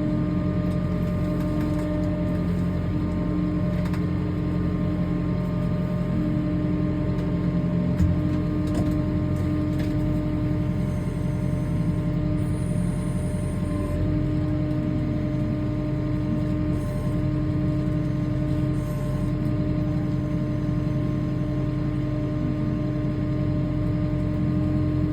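Kubota tractor's diesel engine running steadily at a fast idle in low first gear and four-wheel drive as the tractor crawls up onto a trailer, with a few brief knocks, the loudest about 8 seconds in.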